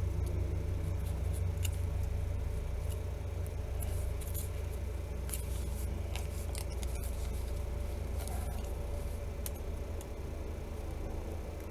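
Small, scattered clicks and light scrapes of phone parts being handled and pried apart during disassembly, over a steady low hum.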